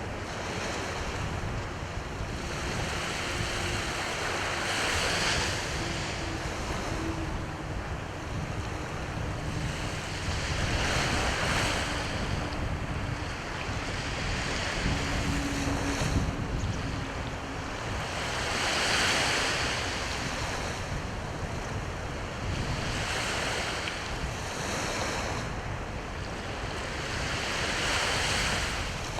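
Sea waves washing onto the shore, each surge swelling up and falling back every few seconds, over a low rumble of wind on the microphone.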